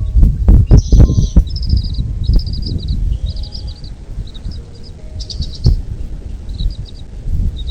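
A small bird chirping in quick series of short, high notes, phrase after phrase. Loud low thumps and rumbling in the first second and a half.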